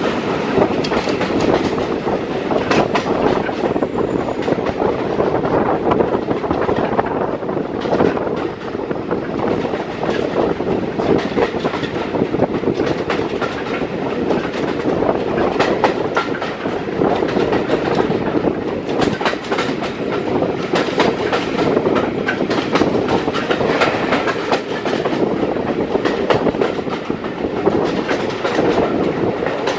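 Mk1 passenger coaches running at speed, with a steady rumble and the wheels clicking irregularly over the rail joints.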